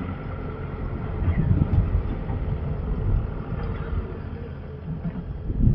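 Heavy diesel engine running with a low rumble, swelling in loudness about a second in and again near the end.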